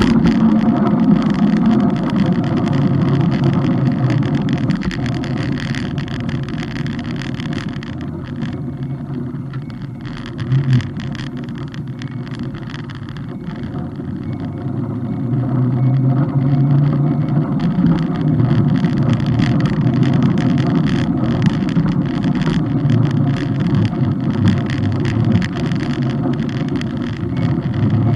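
Steady running noise of a moving vehicle: a low hum under a continuous rush of road and wind noise, easing off a little around the middle and picking up again from about fifteen seconds in.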